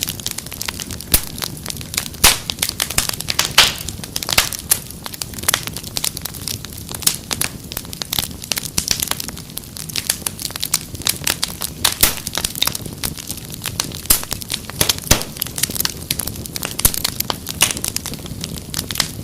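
Wood fire crackling: many sharp pops and snaps at an uneven pace over a steady low rumble of burning.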